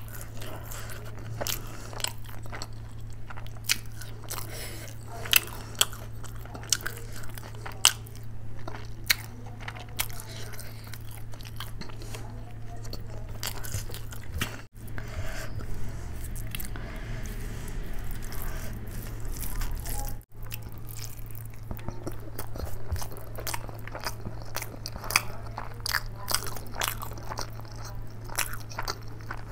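Close-miked chewing of mouthfuls of rice and curry eaten by hand, with many sharp mouth clicks, over a steady low hum. The sound cuts out briefly twice, about halfway through and again some six seconds later.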